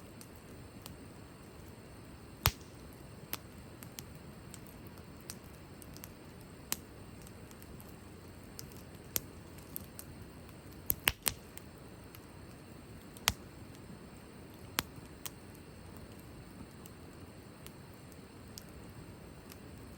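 Wood campfire crackling, with irregular sharp pops every second or two over a steady low hiss of burning.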